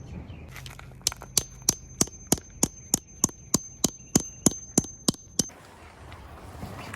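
A quick, even run of about fifteen sharp knocks, roughly three a second, lasting about four seconds and then stopping.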